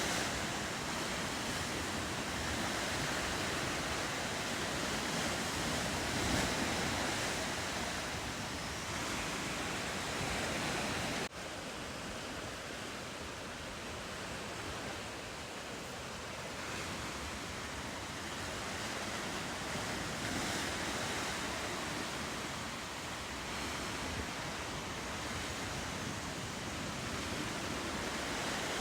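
Steady wash of ocean surf with wind, a continuous rushing noise. About eleven seconds in it cuts out for an instant and resumes slightly quieter.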